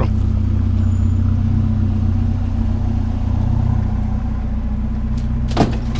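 A vehicle engine running steadily, a low, even hum, with a short knock near the end.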